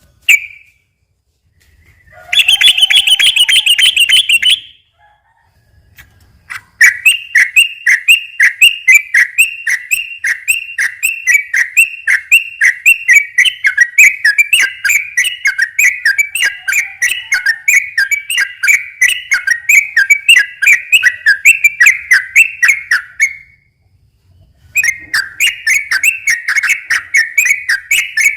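Yellow-vented bulbul (trucukan) singing in fast rolling runs of chattering notes, about five notes a second. A short dense burst comes about two seconds in, then a long run lasting some fifteen seconds, and another run starts near the end.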